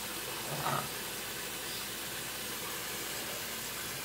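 Steady, even hiss of background noise, with a brief faint sound under a second in.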